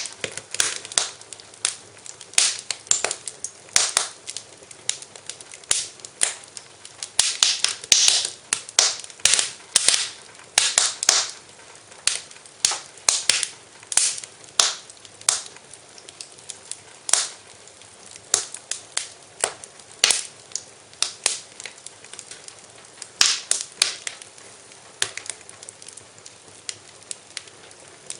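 Wood fire crackling in a fireplace: irregular sharp pops and snaps over a faint hiss, thinning out to a few pops near the end.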